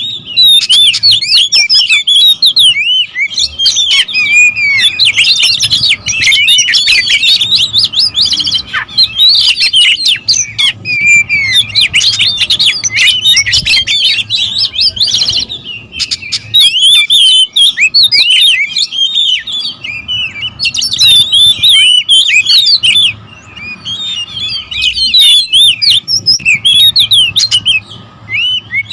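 Several oriental magpie-robins calling in an agitated territorial squabble: rapid, overlapping chirps and whistled glides, dense and loud, easing briefly twice in the latter part.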